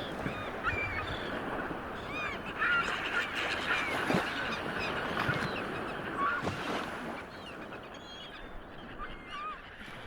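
A flock of birds calling over and over, many short honking calls overlapping, over a steady rush of wind or water.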